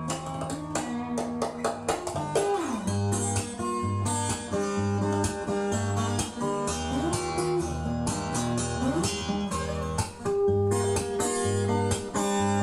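Guitar music played from a vinyl record on a Lenco L30 belt-drive turntable, with a regular bass pulse and sliding guitar notes.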